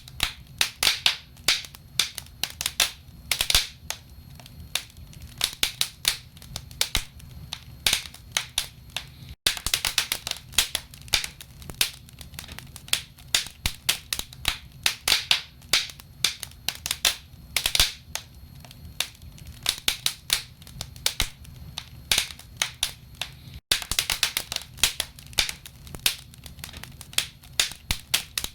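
Burning firewood crackling in a fireplace: dense, irregular sharp snaps and pops over a steady low rumble. The sound drops out for an instant twice.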